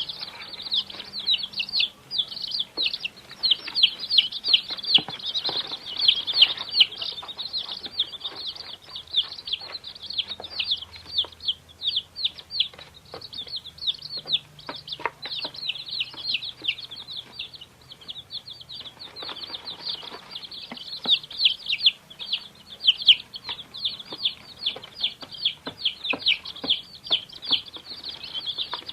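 Many baby chicks peeping together: a dense, continuous chorus of short, high, downward-sliding cheeps, several calls a second, overlapping.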